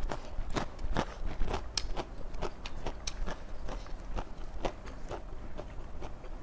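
A person chewing crunchy raw vegetables close to the microphone, with a steady run of crisp crunches, about two or three a second.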